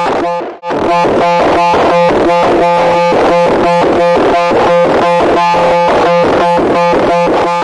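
A loud, harsh electronic pulsing tone: a steady low drone and a higher tone chopped into about three even pulses a second, dropping out briefly about half a second in.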